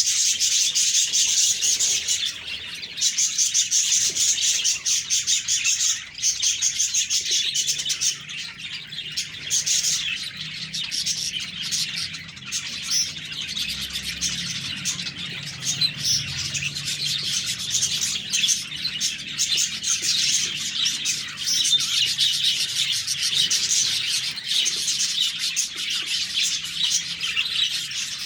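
A group of budgerigars (budgies) chirping and chattering continuously, many high calls overlapping without a break.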